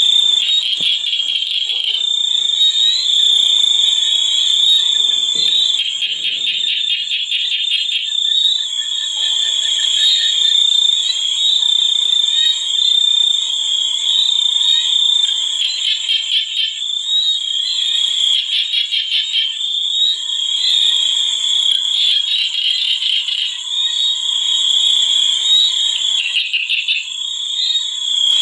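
Frog chorus: many frogs calling together in rapid pulsed trills over a steady high-pitched ringing.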